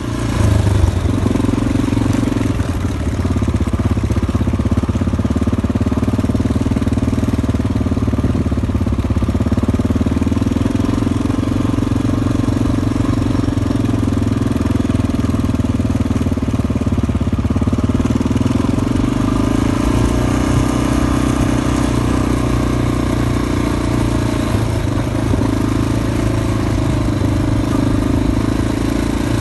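Motorcycle engine running steadily, its pitch sagging a little in the middle and picking up again.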